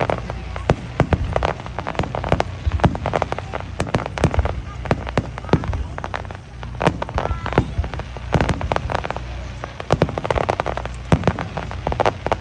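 Starmine fireworks finale: a fast, irregular barrage of firework shell bursts, many sharp bangs close together and overlapping, over a low rumble.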